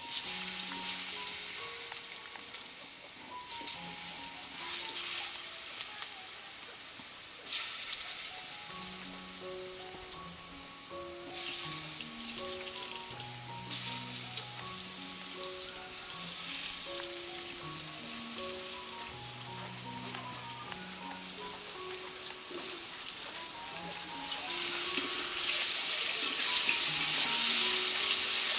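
Pumpkin pieces frying in hot oil in a karahi, sizzling. The sizzle jumps up suddenly several times as more pieces go into the oil and grows louder near the end while they are stirred with a spatula. A light background melody of short notes plays throughout.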